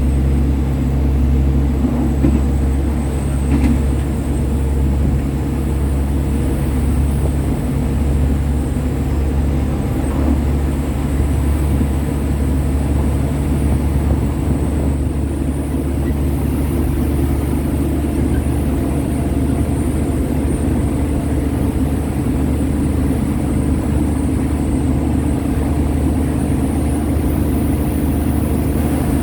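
Diesel train engine running with a steady low rumble and a constant engine drone that holds unchanged throughout.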